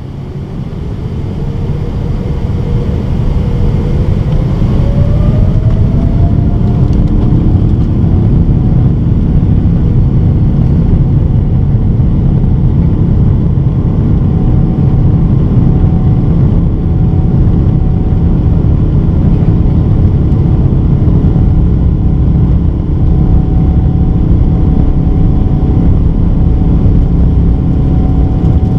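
Boeing 777-300ER's GE90 jet engines spooling up for takeoff, heard from inside the cabin: a whine rising in pitch as the noise builds over the first few seconds, then a steady loud run at takeoff power.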